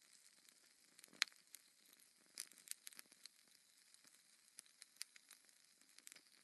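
Wood fire crackling in a fireplace: irregular sharp pops and snaps over a faint hiss, the loudest pop about a second in.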